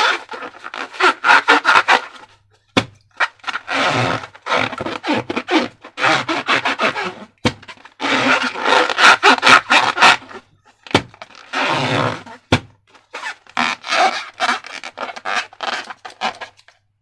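Slime being squished and worked by hand: bursts of wet crackling squelches a second or two long with short pauses between, and a few sharp clicks.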